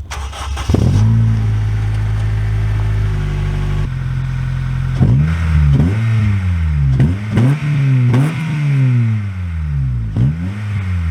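Honda Civic SiR four-cylinder engine starting up in the first second and settling to a steady idle, then blipped up and down in quick repeated revs through the second half.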